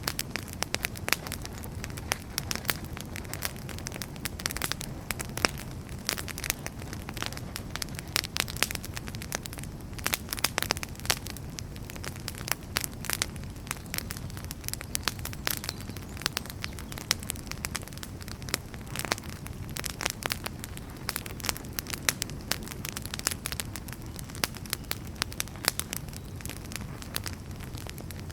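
Wood fire crackling in a fireplace: frequent irregular sharp pops and snaps of burning firewood over a steady low noise of the flames.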